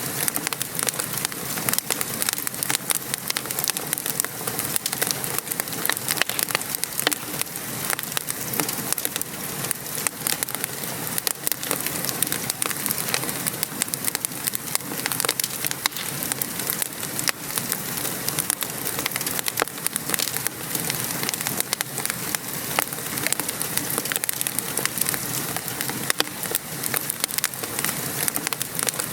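Wood fire crackling with many small pops, over a steady patter of rain.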